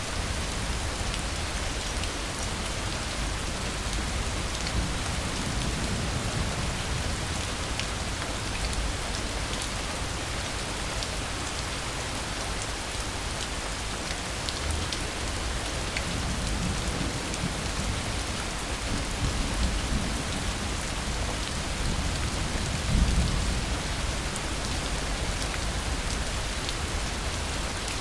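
Steady rain falling, with low rumbles of distant thunder swelling now and then, the strongest a little over three-quarters of the way through.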